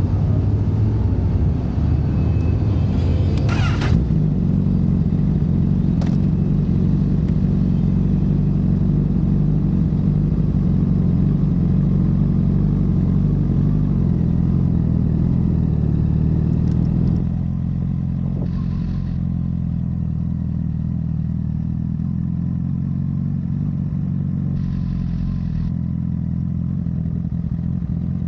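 Honda CBR1000RR's inline-four engine running steadily at an unchanging pitch through a Yoshimura full exhaust system, with a brief sharp sound about three and a half seconds in. About seventeen seconds in, the sound becomes slightly quieter and duller.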